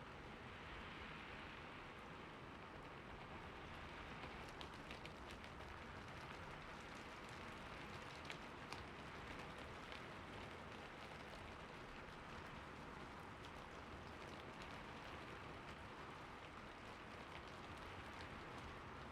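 Soft, steady rain falling, with scattered sharper drop ticks here and there.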